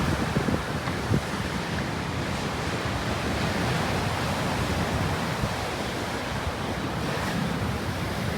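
Ocean surf washing in steadily on a beach, with gusty wind buffeting the microphone, the gusts strongest about a second in.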